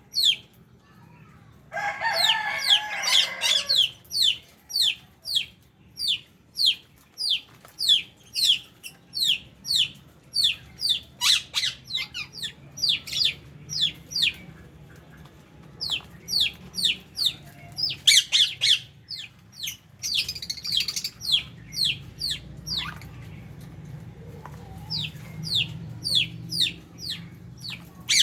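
A flock of lovebirds giving rapid, shrill chirps, two or three a second, each falling in pitch, with a burst of harsher chatter about two seconds in.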